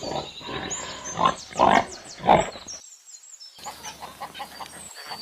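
Pig grunting and squealing, three loud calls in quick succession in the first half. After a short break comes a quieter stretch with faint high chirps.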